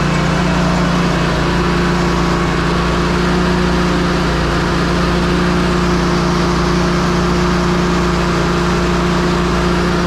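Ready-mix concrete mixer truck running steadily, its engine driving the turning drum as concrete is discharged; a loud, even drone with a constant hum.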